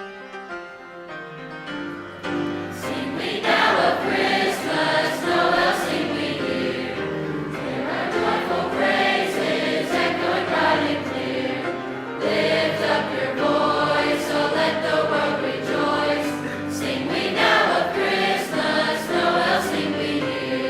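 High school choir singing with piano accompaniment. The piano plays alone at first, and the choir comes in about two seconds in, singing in phrases with short breaks between them.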